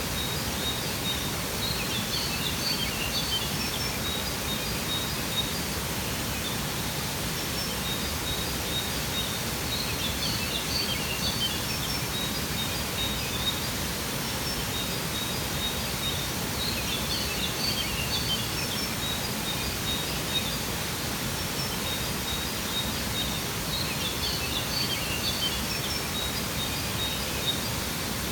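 Steady rushing of a waterfall, with small birds chirping in short high clusters that come back about every seven seconds.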